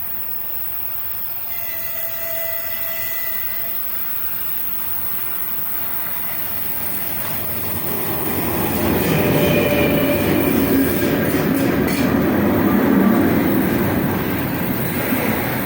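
3ES5K 'Ermak' electric locomotive hauling a container freight train, with wheels running on the rails. It grows clearly louder about halfway through as it nears, with a few faint high squealing tones.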